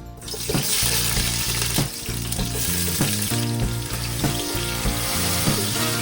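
Food sizzling in hot oil in a cooking pot, starting suddenly as it hits the oil, over background music with a steady beat.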